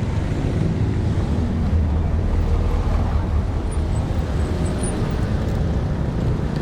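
Steady road traffic noise heard from a bicycle: vehicle engines running close by over a constant low rumble of wind and tyres.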